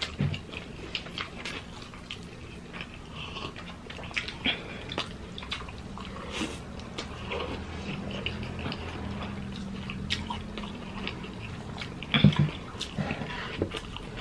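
Close-miked chewing and wet mouth smacks of two people eating garlic fried rice, hotdog and egg with their hands, with scattered small clicks throughout.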